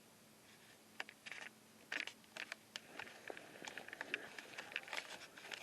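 Faint footsteps crunching on dry ground: irregular light crackles and clicks, sparse at first and getting busier from about a second in.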